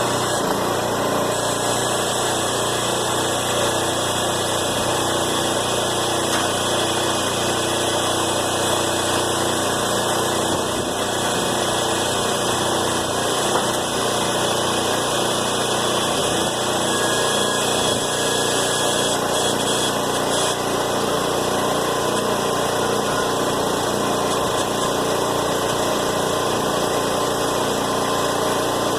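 Small engine powering a scrap baler, running steadily at an even speed.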